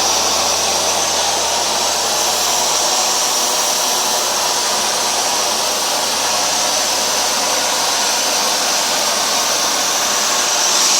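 Hoover Dual Power Max carpet washer running steadily on a dry pass, its suction drawing moisture back out of the wet carpet: an even motor-and-airflow hiss with a high edge.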